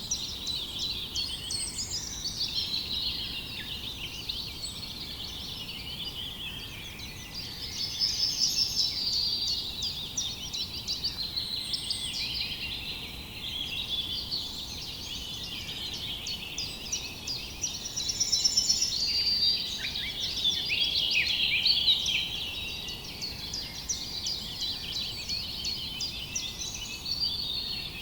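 A dense chorus of many small birds chirping and twittering at once, rising and falling in bursts, over a faint steady background hiss.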